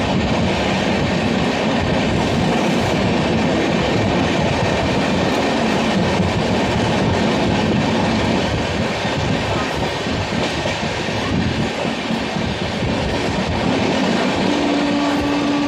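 Tapti Ganga Express passenger train running along the track with a steady, loud rattle of wheels and coaches. A steady tone comes in near the end.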